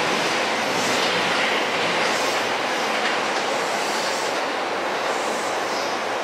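Electric train running past on the rails: a steady rush of wheel and running noise, with a high hiss that swells about once a second.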